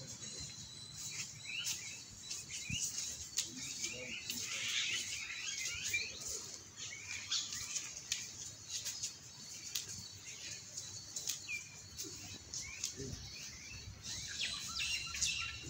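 Small birds chirping again and again in short calls, with scattered faint clicks.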